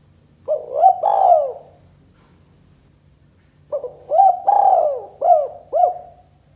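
Spotted dove (tekukur) cooing. A short phrase of about three notes comes about half a second in, then a longer phrase of about five notes starts near four seconds.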